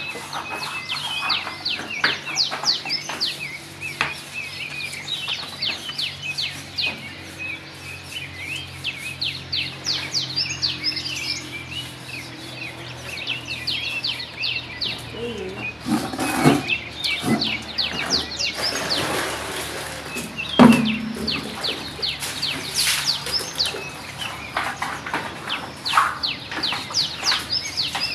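Many small birds chirping in quick, busy calls throughout, with a few knocks or thumps around the middle, one of them louder than the rest.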